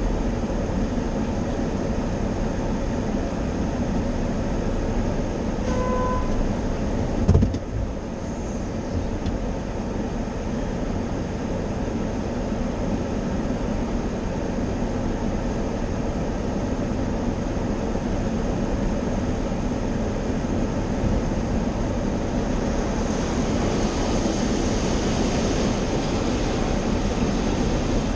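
Automatic tunnel car wash heard from inside the car: steady noise of water spray and wash machinery against the body. There is a short beep about six seconds in, a thump a second later, and a louder hiss of spray near the end.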